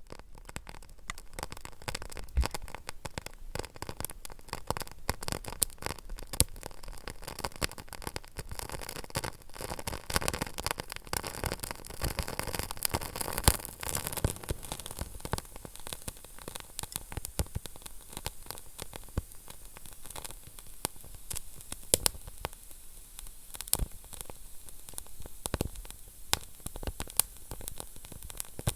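Wood fire burning in a fireplace: a steady hiss with irregular crackles and sharp pops of the burning logs.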